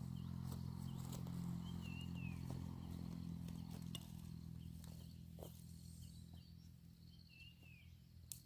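Outdoor ambience: a low steady rumble that slowly fades, with a few short high falling chirps and scattered light clicks.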